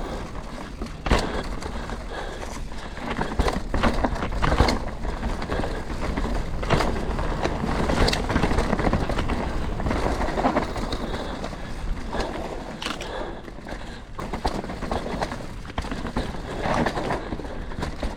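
Full-suspension mountain bike riding down a dirt and rock trail: knobby tyres rolling and scrabbling over the ground, with frequent sharp knocks and rattles as the bike hits bumps.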